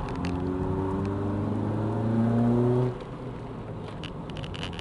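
Honda Civic EJ9's engine under acceleration, heard from inside the cabin, its note climbing steadily in pitch and getting louder. About three seconds in it drops off suddenly to a quieter, lower running note.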